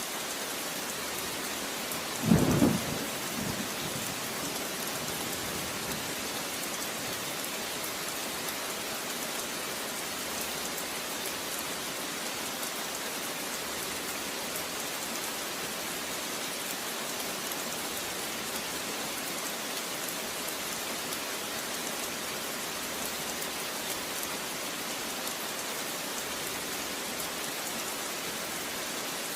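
Steady rain, hissing evenly, with a short, loud clap of thunder about two seconds in and a weaker after-rumble just after it.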